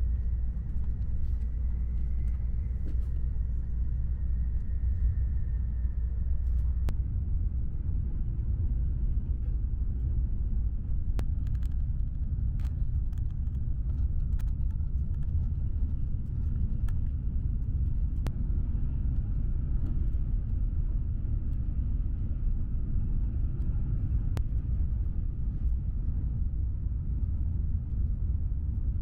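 Steady low rumble of a Tokaido Shinkansen Nozomi bullet train running, heard inside the passenger cabin. A few faint sharp clicks come through it from the seatback tray table and a plastic bento lid being handled.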